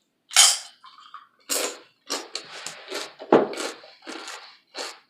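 Close-miked eating: a run of short, wet chewing and biting sounds, about two a second, with a sharper bite near the start.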